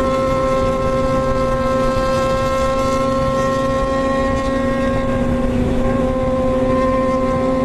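Motorcycle engine running at a steady high speed while riding, one held pitch that sags slightly about five seconds in, with wind rumble underneath.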